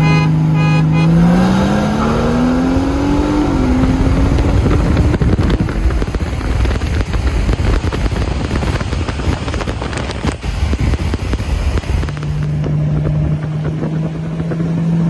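A tuned performance car pulling hard from a 40 mph roll race. Its steady cruising engine note climbs under full throttle, with a shift about three and a half seconds in. The engine is then buried under loud wind and road roar, and a steady cruising note returns about twelve seconds in.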